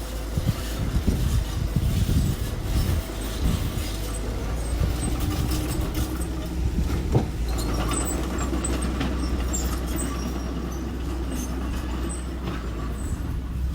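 Small earthmoving machine's engine running steadily, with scattered knocks and clanks over the first few seconds and one sharp click about seven seconds in.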